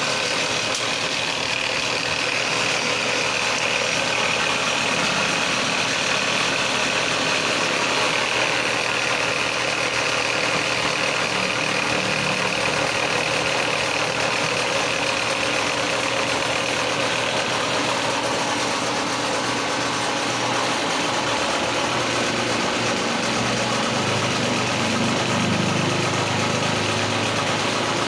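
A motor running steadily, with a stronger low hum coming in near the end.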